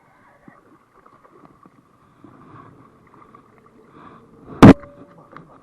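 Faint rustling of handling in a kayak, broken by one sharp, loud knock about four and a half seconds in.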